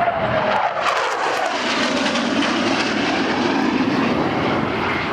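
F-16 fighter's jet engine roaring loudly on a pass, its whine dropping in pitch at the start, then a steady roar.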